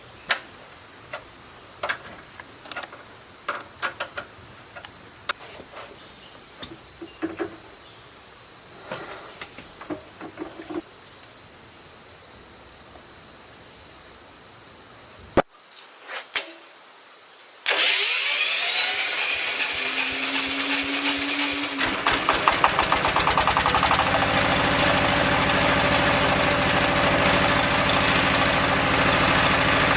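Scattered clicks and knocks of handling, then an engine starts suddenly about two-thirds of the way in, its pitch rising quickly before it settles into a steady run. It is driving a freshly rewound 10 kW generator under test.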